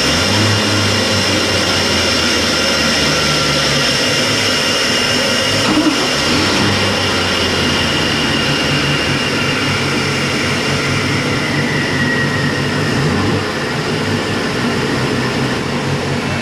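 Twin gasoline inboard engines of a 1992 Sea Ray 380 Sun Sport idling steadily just after starting, with a low hum and a steady hiss.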